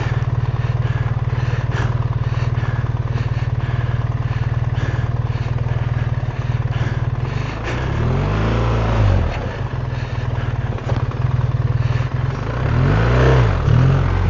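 BMW R 1300 GS Adventure's boxer-twin engine running at low revs, revving up and back down twice, about halfway through and near the end.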